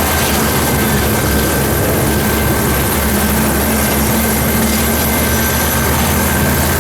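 Leonardo AW249 Fenice attack helicopter flying: steady rotor and engine noise with a high, steady turbine whine.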